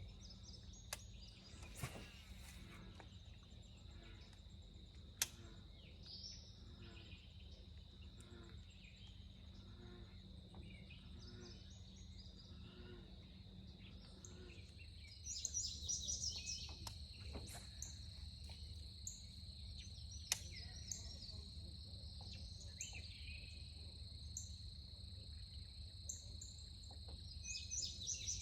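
Faint outdoor ambience: a steady high insect trill, with birds chirping, busiest about halfway through and near the end, and a few sharp clicks.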